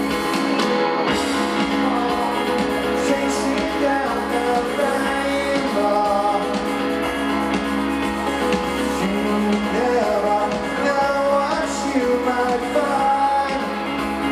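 Live rock band playing a song, guitars and drums with singing over them, loud and continuous.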